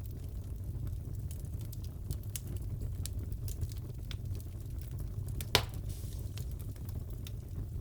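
Wood fire crackling in a fireplace: scattered small crackles over a steady low rumble, with one louder pop about five and a half seconds in.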